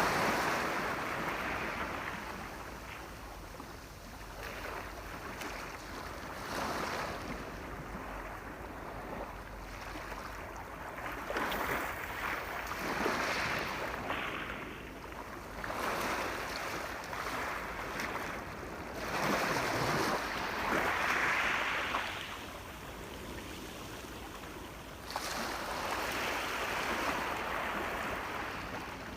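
Sea waves breaking and washing up a shore. The hiss swells and subsides in surges every three to five seconds.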